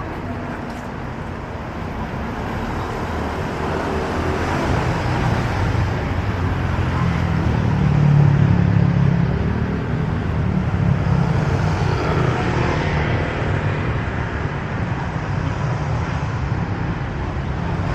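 City street traffic: motor vehicle engines running close by, growing louder to a peak about eight seconds in as vehicles pass, then carrying on steadily.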